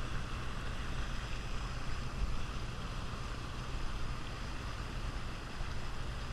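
Sailboat's auxiliary engine running steadily under way while motor sailing, with wind and water noise over it.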